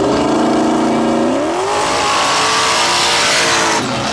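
A drag race car's engine revving hard. Its pitch climbs, holds, then climbs again and stays high, and it drops off sharply near the end.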